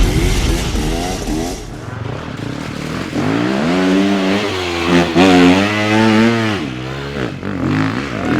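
Dirt bike engine revving hard: the pitch climbs about three seconds in, is held high for a few seconds, then drops away.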